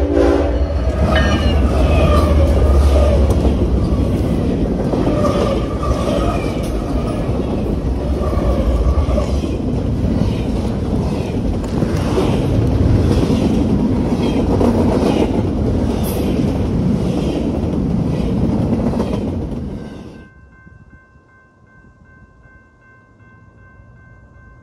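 A long diesel freight train passing close by: the lead locomotives' horn sounds at the start and their engines rumble past. Then double-stack intermodal cars roll by with a steady rhythmic clatter of wheels over rail joints. About 20 seconds in, the sound drops off abruptly to a low level with a few faint steady tones.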